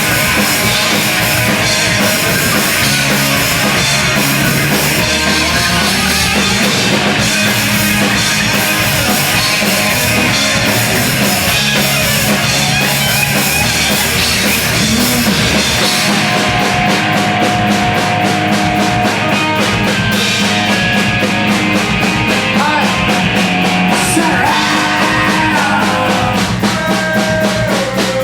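A live post-hardcore band playing loud: drums, distorted electric guitars and bass. About sixteen seconds in, the low end drops away and the drums turn to a fast, even pattern on the cymbals while the guitars hold ringing notes.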